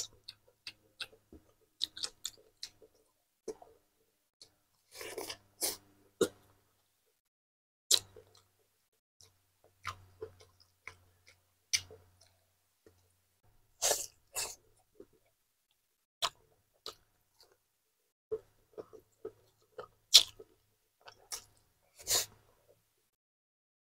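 Close-miked eating sounds: a man chewing pork meatballs and rice eaten by hand, with scattered short wet mouth clicks and lip smacks and a few louder brief noises.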